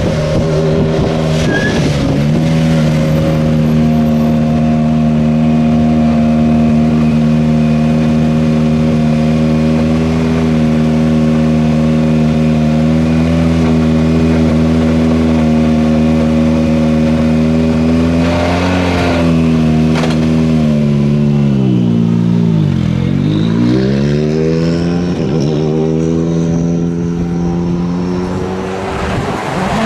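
A World Rally Car's turbocharged 1.6-litre four-cylinder engine held at steady high revs for a long stretch. About three-quarters of the way through, the revs drop sharply and climb straight back up, then run unevenly.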